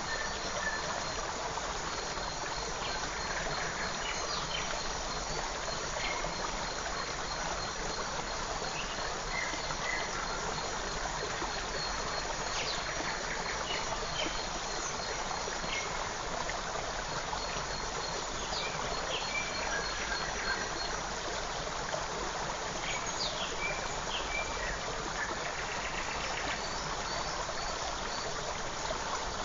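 Forest creek running with a steady rush of water, with scattered short bird chirps over it and a faint, continuous high-pitched trill.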